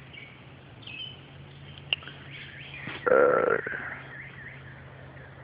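A single short vocal sound from a person, about three seconds in, over faint bird chirps.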